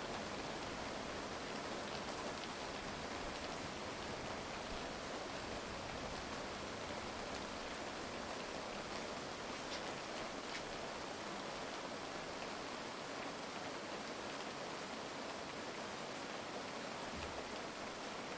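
Heavy rain falling steadily, an even hiss with an occasional faint drop tick.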